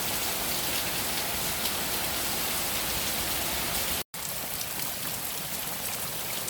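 Steady rain falling on the yard and surfaces, with scattered individual drops heard through it. The sound cuts out for an instant about four seconds in, then carries on the same.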